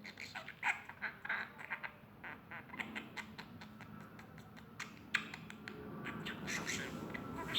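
Birds calling in a quick run of short chirps and squawks.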